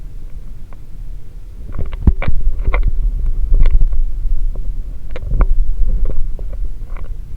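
Alaska Railroad freight train rolling past: a deep rumble that swells about two seconds in, with irregular clanks and clicks of wheels over the rails.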